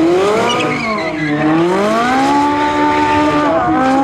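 Propeller aircraft's piston engine running with the throttle being worked. Its pitch rises, falls, then climbs again about a second and a half in and holds steady, with a brief dip near the end.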